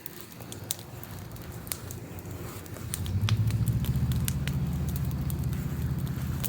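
Bonfire crackling with scattered sharp pops. About three seconds in, a steady low motor-like hum comes in and keeps going.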